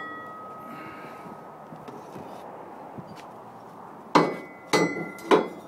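Steel airbag and shock mount brackets clanking against each other as they are handled: a ring dies away in the first second, then three sharp metallic clanks, each ringing briefly, near the end.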